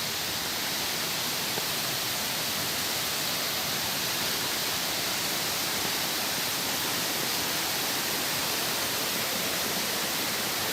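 Steady rushing of flowing water over rocks, an even hiss with no breaks.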